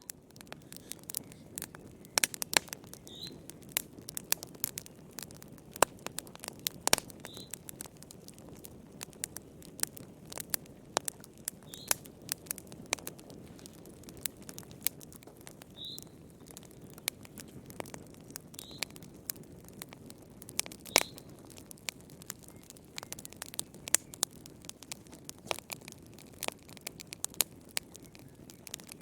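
Wood fire burning in a fireplace: irregular sharp crackles and pops over a steady low hiss. Short high squeaks come every few seconds.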